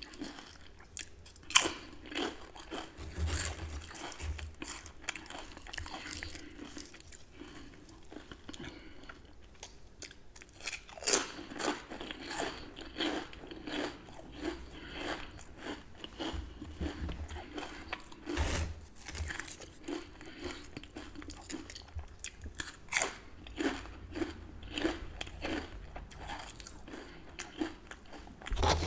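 Close-miked chewing of crunchy chips with dip: a loud bite about a second and a half in, then crunching chews that become a steady rhythm from about eleven seconds in.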